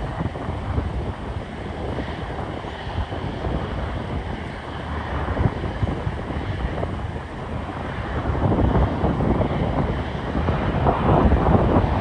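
Jet airliner engine rumble mixed with wind buffeting the microphone, growing louder about eight seconds in.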